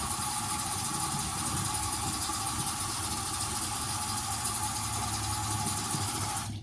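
Bathroom sink tap running, a steady even rush of water.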